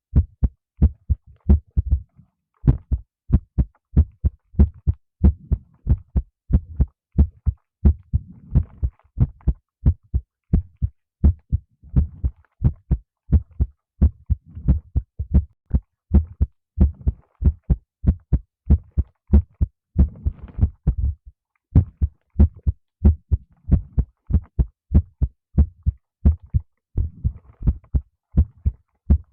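Heartbeat picked up by a microphone held against the body: a steady, even run of low thumps, with soft rustling a few times in between.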